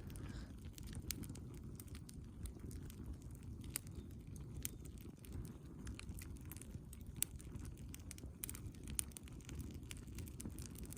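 Wood fire burning: irregular sharp crackles and pops scattered throughout, over a steady low rumble.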